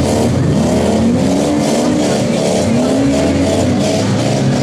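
Several demolition derby cars' engines running together on the arena, their revs rising and falling in overlapping surges.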